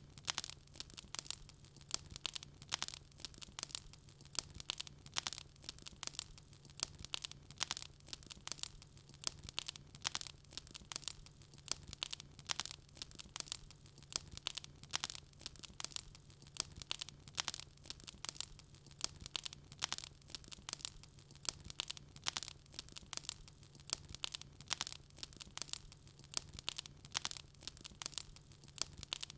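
Wood fire crackling in a fireplace: a dense, steady stream of sharp pops and snaps over a faint, steady low hum.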